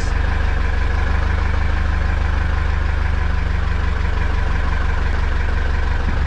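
Heavy truck diesel engine idling steadily, a constant low rumble with an even fast pulse.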